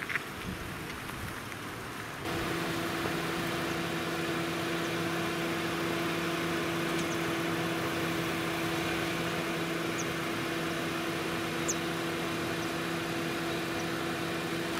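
A parked car's engine idling with a steady hum over a light hiss, starting abruptly about two seconds in.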